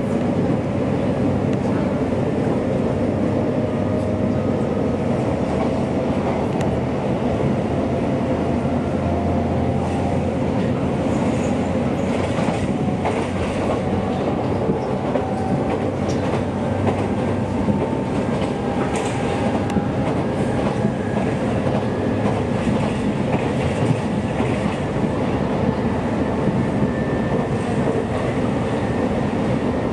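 Running noise heard from inside a moving electric train on the Joban Line: a steady rumble from wheels and rails, with a faint whine that rises slowly in pitch and a few wheel clacks over rail joints.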